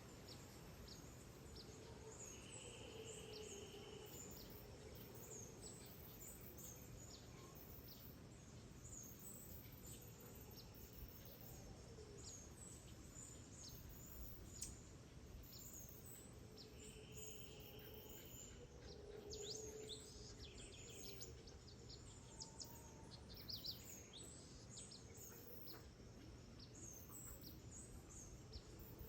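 Faint tropical rainforest dawn chorus: many small birds chirping and calling over a steady pulsing insect drone, with a buzzy trill twice, near the start and about halfway through.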